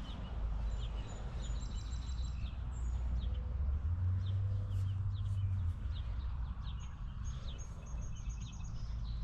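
Small birds chirping and trilling repeatedly. Underneath runs a steady low engine hum that swells for a couple of seconds mid-way.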